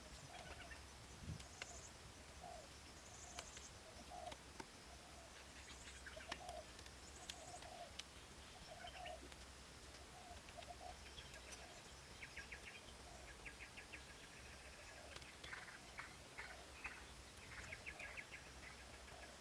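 Faint birdsong: a short low call repeats about once a second, with brief high chirps, and quick trilling calls come in during the second half. A few faint clicks are scattered through it.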